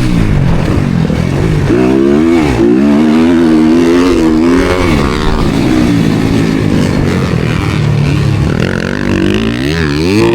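Motocross dirt bike engine racing on track, its revs climbing and dropping again and again as the throttle is opened and chopped through corners and gear changes.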